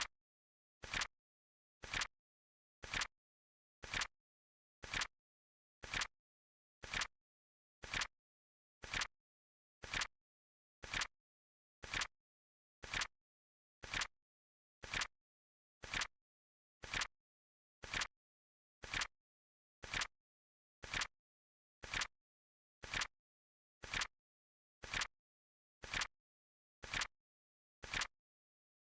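Flip clock timer ticking: a short, sharp click once a second, evenly spaced, with silence between.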